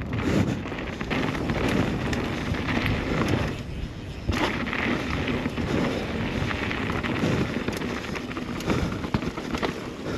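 Downhill mountain bike descending a dirt trail: tyres rolling over the ground with frequent knocks and rattles from the bike, and wind buffeting the camera microphone. It goes briefly quieter about four seconds in.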